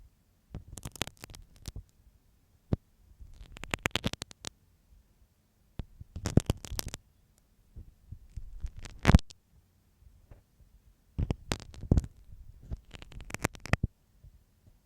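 Ear-cleaning ASMR with a marking pin: crackly scratching and tapping very close to the microphone, in about six short bursts a couple of seconds apart.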